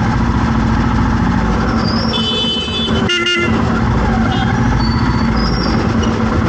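A vehicle engine runs with a steady hum amid road traffic. Horns honk over it: a high-pitched horn about two seconds in, a short blaring horn just after three seconds, and a few brief higher beeps later.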